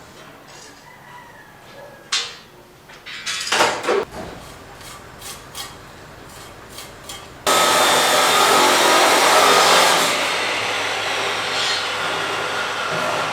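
A few short scrapes and knocks of hand work on a building site, then about halfway through a power tool starts suddenly and runs steadily, loud, with a low hum under a hiss of cutting noise.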